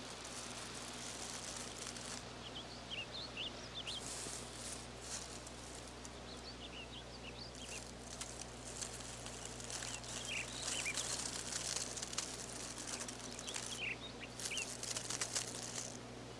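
Outdoor nature ambience: many short, high bird chirps scattered through, over a high hissing noise that comes and goes and a faint steady low hum.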